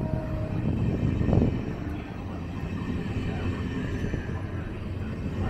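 A train running on the tracks: a steady low rumble with a brief louder swell about a second in.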